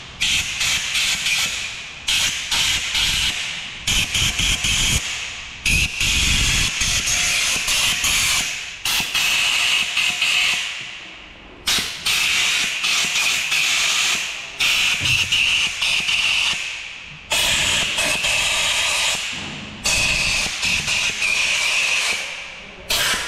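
Compressed-air blow gun hissing in about nine sharp blasts of one to three seconds each, blowing water out of the oil galleries and bolt holes of a freshly machined Opala four-cylinder 2500 engine block.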